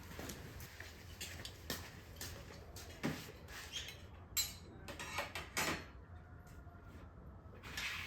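Kitchen items being handled: a string of irregular short knocks and clicks over a low steady hum, the sharpest about three, four and a half and five and a half seconds in.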